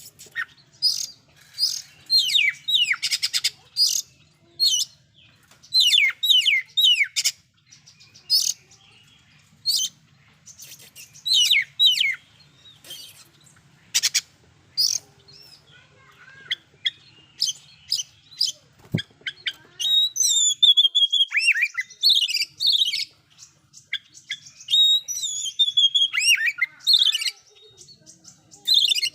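Oriental magpie-robin (kacer) singing loudly: short bursts of rapid, high whistled and sweeping notes filled with mimicked phrases, separated by brief pauses, turning into a longer unbroken run of song about two-thirds of the way through.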